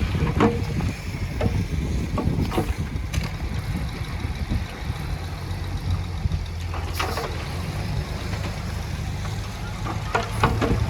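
Diesel engine of heavy earthmoving machinery running steadily with a deep rumble, with a few brief clanks and knocks scattered through.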